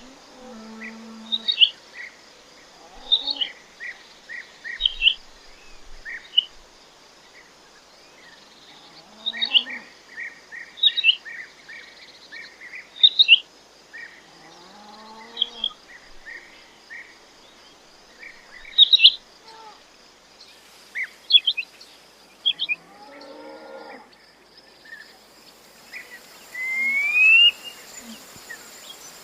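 Quail calling: runs of short, high chirping calls. A few lower, drawn-out calls bend in pitch, and a loud rising whistled call comes near the end.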